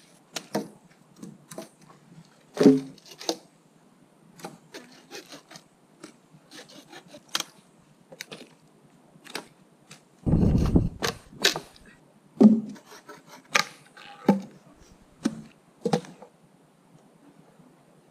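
Irregular sharp cracks, knocks and scrapes of wood as branches and sticks are handled for building a shelter, with one heavy low thump about ten seconds in.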